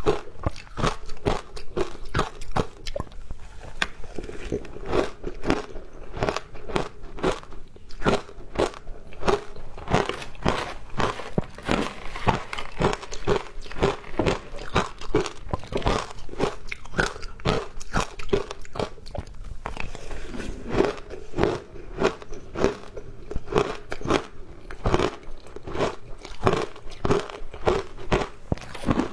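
Frozen ice being bitten and chewed: dense, irregular crunching with many sharp cracks a second.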